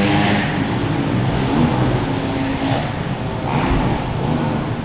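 Motocross bike engine running and revving, with shifting pitch over a noisy rush.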